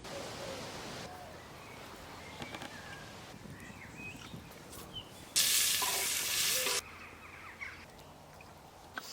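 Woodland camp sounds cut together: a few bird chirps over quiet outdoor ambience, then, about five seconds in, a loud sizzle lasting about a second and a half that stops abruptly, food frying in a hot pan.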